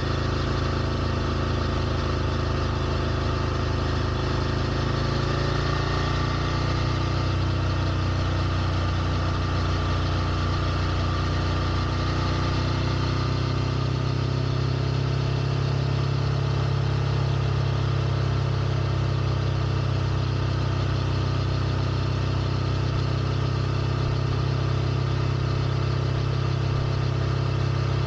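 Ducati Scrambler Nightshift's air-cooled L-twin engine idling steadily. Its idle note shifts gradually between about five and fourteen seconds in, then settles.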